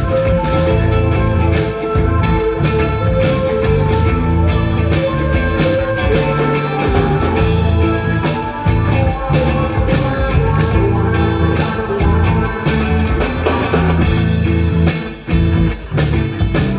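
Live rock band playing an instrumental passage with no singing: guitar over bass and a drum kit keeping a steady beat. The music briefly drops out near the end before coming back in.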